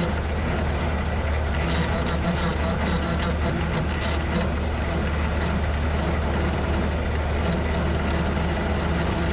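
Tractor engine running steadily under load while driving a bush hog rotary mower, a constant low hum with no break or change in pitch.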